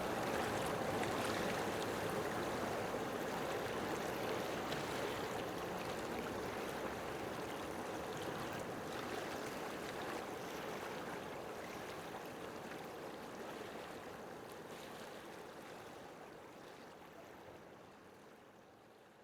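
Steady rushing noise like running water, slowly fading out toward the end.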